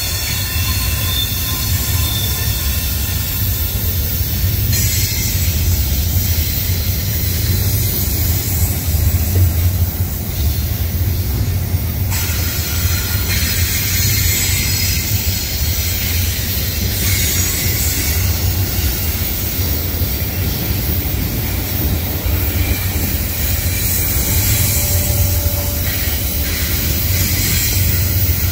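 Freight train of double-stack container well cars rolling past close by: the steady low rumble of steel wheels on the rails, with no let-up.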